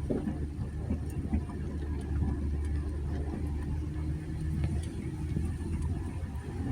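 2020 Jeep Gladiator's 3.6-litre V6 running at low speed as the truck crawls along a rough dirt trail, a steady low hum with scattered light clicks and knocks.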